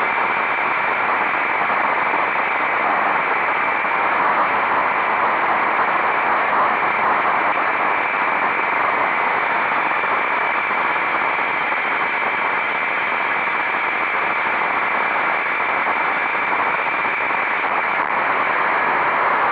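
Steady rushing wind and road noise from a motorcycle riding at speed, with no clear engine note standing out.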